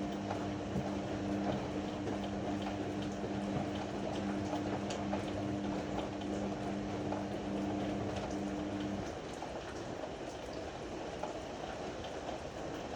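Ariston AML125 washer-dryer running a cycle: water sloshing in the drum with scattered small clicks, over a steady machine hum that cuts off about nine seconds in.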